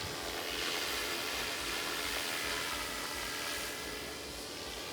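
Radio-controlled model airplane's motor running steadily as the plane flies past, the sound swelling about half a second in and fading again after about three and a half seconds.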